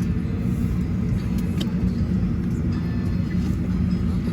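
Steady low hum of a Boeing 737-900ER's cabin air system at the gate during boarding, with a few faint clicks.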